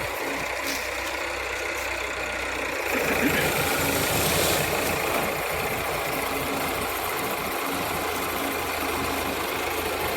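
Sugarcane harvester's engine running steadily, a little louder for a couple of seconds near the middle.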